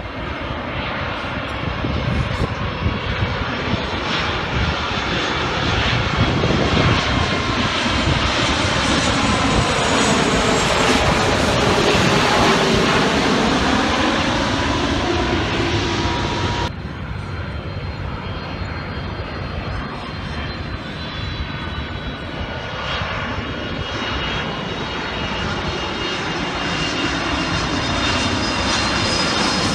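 Aircraft engine noise, loud and continuous, with whining tones that slide down and back up in pitch as the aircraft passes; the sound cuts abruptly about 17 seconds in and carries on.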